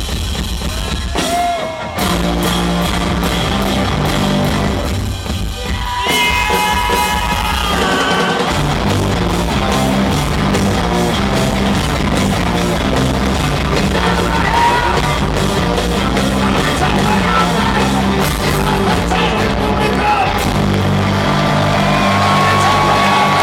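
Loud live heavy rock: drums with a stepping bass line, electric guitar and a voice now and then. The sound is harsh and distorted because it is too loud for the small camera's microphone.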